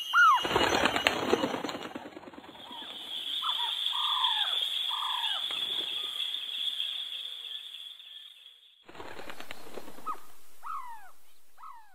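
A bird's wings flapping in a loud flurry over the first two seconds, then short bird calls sliding downward in pitch over a steady high-pitched buzz. After a brief break near nine seconds there is another short flurry and a few more falling calls.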